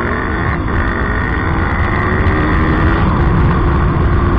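KTM RC390's single-cylinder engine running steadily at speed, its note riding over a heavy low rumble.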